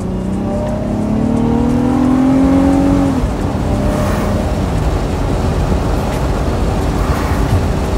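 Car engine heard from inside the cabin, climbing steadily in pitch under acceleration for about three seconds, then dropping away abruptly, leaving a steady rumble of road noise.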